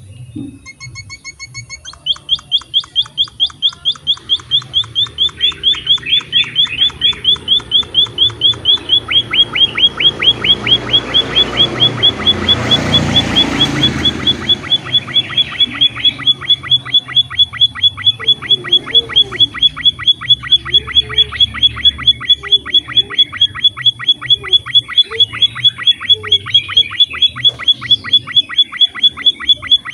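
A small finch of the emprit/pipit (munia) kind calling in a fast, even run of short high chirps, about five a second. The run starts about two seconds in and keeps on steadily. A rushing noise swells and fades around the middle.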